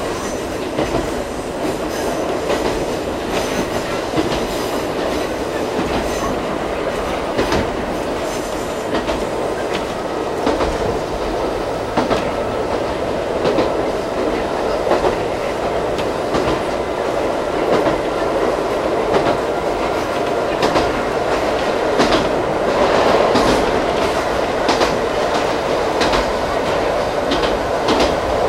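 Ichibata Electric Railway 2100 series electric train heard from inside the carriage while running at speed. A steady rumble of wheels on rail carries sharp clicks at uneven spacing as the wheels pass over rail joints.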